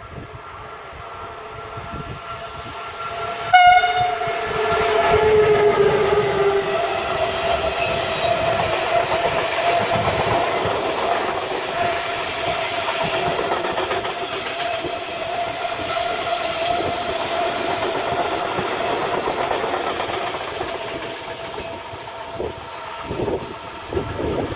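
A train passing on a main line: a short horn blast about three and a half seconds in, then the steady rush of the train going by, with a tone that falls in pitch as it passes and dies down near the end.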